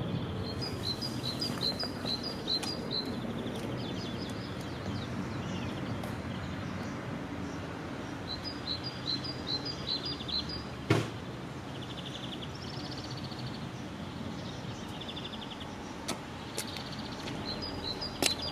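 A small songbird singing quick series of short, high chirps, about four a second, in three bouts, over a steady low background rumble. A single sharp click sounds about halfway through.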